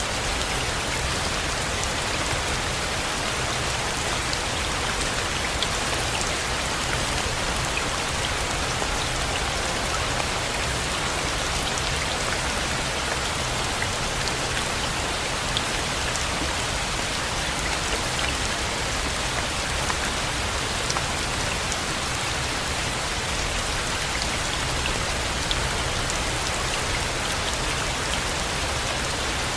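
Steady rain falling, an even hiss of rain with scattered individual drops ticking.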